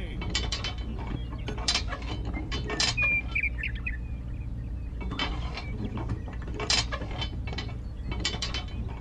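Light mechanical clicking and ticking in short irregular clusters, like small parts of a model tractor being handled, over a low steady hum; a short high chirp about three seconds in.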